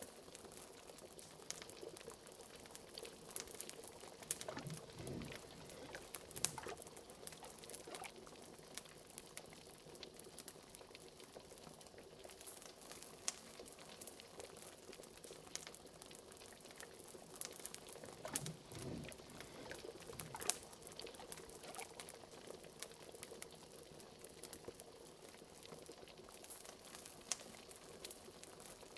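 Liquid bubbling steadily in a cauldron, with a couple of deeper bubbles rising about 5 and 19 seconds in, over a fireplace crackling with many small sharp pops.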